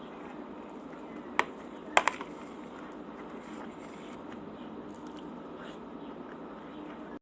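Close-miked eating of cheese tortas: soft chewing over a steady background hum, with a sharp click about a second and a half in and a quick double click half a second later.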